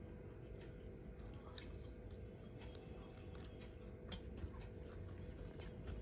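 Faint, close-miked chewing and soft squishy mouth sounds of someone eating a meal. There is a sharp click about a second and a half in and another about four seconds in.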